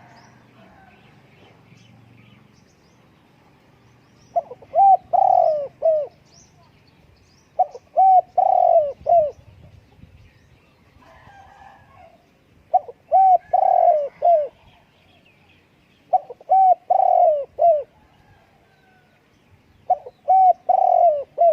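Spotted dove cooing: five phrases of several short low coos each, repeated every three to five seconds, the last cut off at the end.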